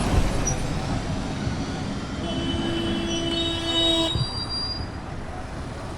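Steady road-traffic noise with one long horn blast, held for about two seconds and cut off abruptly near the two-thirds mark.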